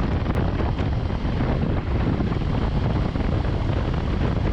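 Steady rush of wind on the microphone of a moving motorcycle, with the engine running underneath.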